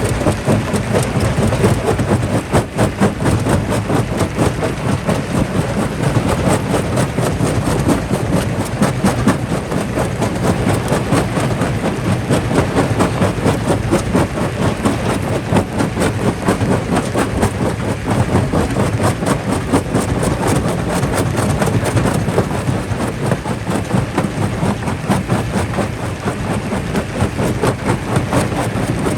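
Jaw rock crusher working: a dense, constant clatter of rocks knocking and breaking over a steady low machine drone.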